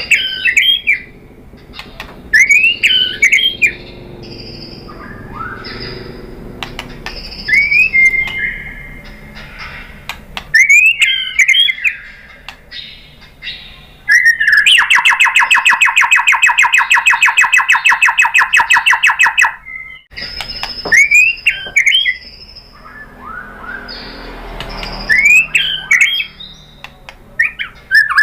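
White-rumped shama song: loud, short whistled phrases sweeping up and down, repeated every few seconds, with a long, fast, evenly repeated trill of about five seconds in the middle.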